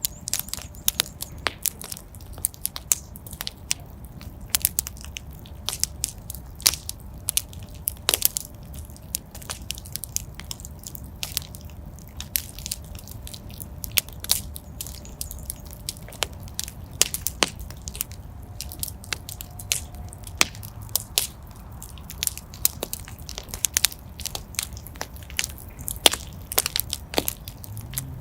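Fire burning in a fireplace, crackling: many irregular sharp pops and snaps over a low, steady rumble of the flames.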